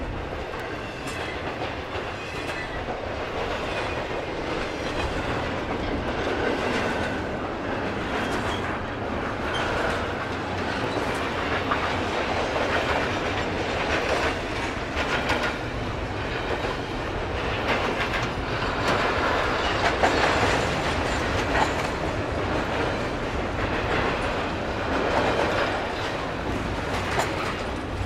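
Double-stack container freight train rolling past: steel wheels clicking over the rail joints over a steady rumble as the well cars go by.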